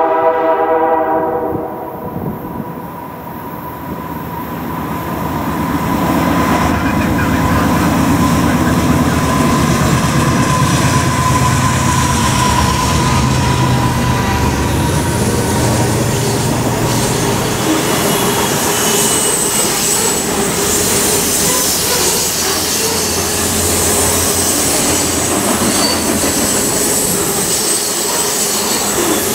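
A freight locomotive horn sounds a chord that cuts off a second or two in. Then the GE diesel locomotives rumble past, and loaded grain hopper cars follow with a rapid clatter of wheels over the rail joints. From about the middle on, a steady high squeal of wheel flanges grinding on the curved rail rides over the rolling noise.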